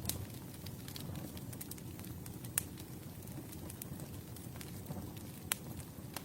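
Campfire burning: a steady low rush of flames with scattered small crackles and three sharp pops, one near the start, one about two and a half seconds in, and one about five and a half seconds in.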